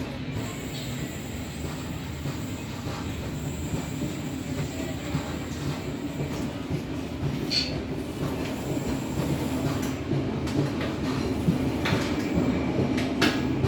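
Passenger train coach running along the track: a steady rumble of wheels on rails, with several sharp clicks of the wheels over rail joints in the last few seconds.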